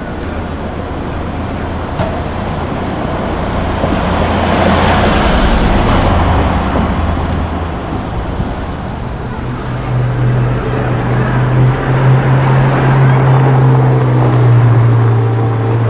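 Street traffic: a vehicle passes with a swell of engine and tyre noise peaking about five seconds in. From about nine seconds in, a deep, steady engine drone takes over and is the loudest sound.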